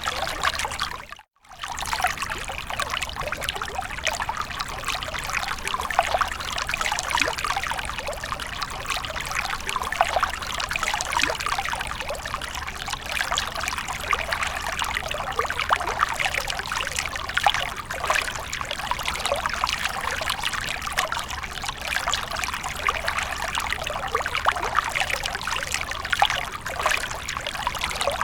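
Water of a fountain splashing and trickling steadily. The sound cuts out for a moment about a second in, then carries on unchanged.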